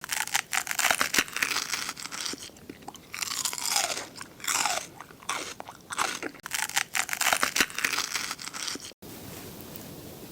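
Close-miked biting and chewing of seafood pajeon, dense crisp crunching that stops abruptly about nine seconds in, leaving a faint steady hiss.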